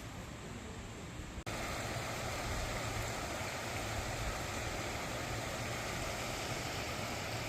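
Mountain valley stream rushing: a steady, even wash of running water. About a second and a half in there is a sudden cut, after which the water is louder.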